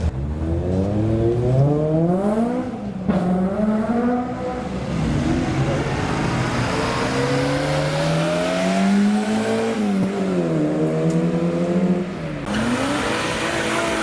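Modified car's engine revving as it drives off, its pitch climbing and dropping several times.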